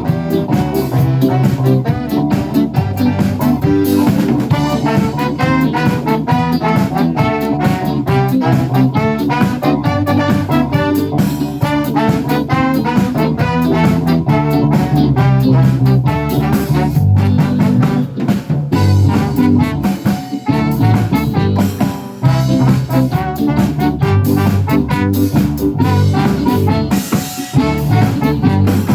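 A live band playing an upbeat song at a steady tempo.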